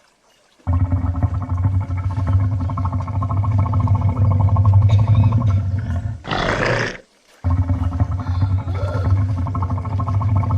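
A large wild animal growling low and continuously, broken about six seconds in by a short hissing burst and a brief pause, then growling again.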